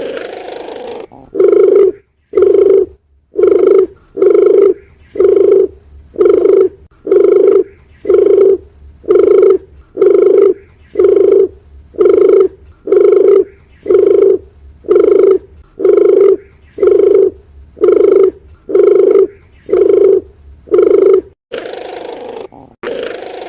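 Dove cooing: a long run of short, low coos repeated at an even pace of about one a second, with a longer, harsher rolling call at the start and again near the end.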